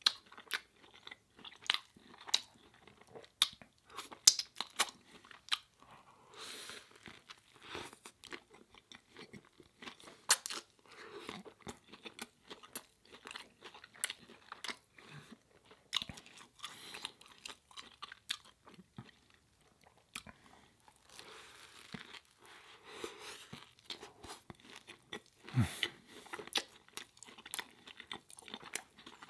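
Close-miked eating of a vegan burger and fries: steady chewing and biting with many sharp crunches and mouth clicks.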